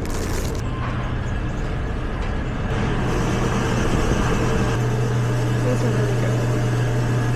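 A steady mechanical rumble with a strong low hum, like a vehicle running. The hum grows louder about three seconds in and stops abruptly at the very end.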